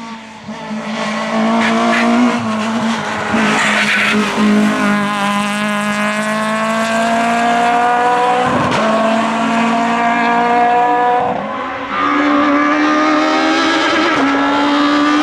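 Group F2000 rally car's naturally aspirated engine pulling hard, its pitch climbing steadily through the revs and dropping at upshifts about two-thirds of the way through and again near the end.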